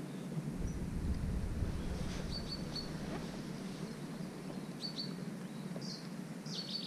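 Outdoor ambience: wind rumbling on the microphone for the first few seconds, and a small bird giving a few short high chirps about two seconds in and again about five seconds in.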